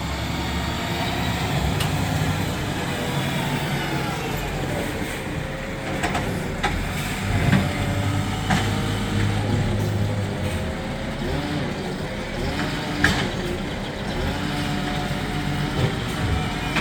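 Garbage truck's diesel engine running, its pitch rising and falling, with a few sharp knocks along the way.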